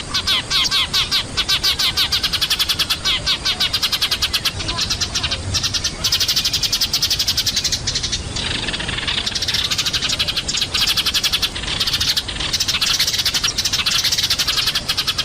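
A flock of Eurasian tree sparrows chirping noisily, in a dense, rapid, unbroken stream of overlapping chirps.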